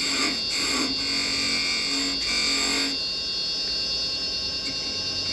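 Wood lathe running with a steady whine while a parting tool cuts into the spinning finial blank, narrowing its tenon toward 8 mm. The cutting hiss comes and goes with short breaks, then stops about three seconds in, leaving only the lathe running.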